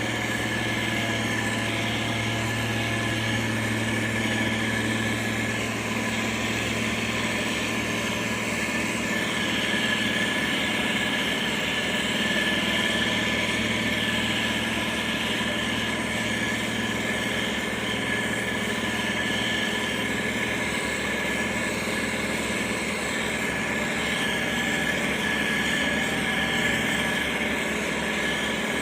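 Heavy diesel engine of road-construction machinery running steadily, with a steady high whine over its hum.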